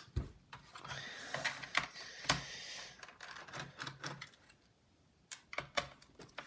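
Scattered small clicks and taps of a screwdriver and screws working on a laptop's plastic case during disassembly, with a brief lull about three-quarters of the way through.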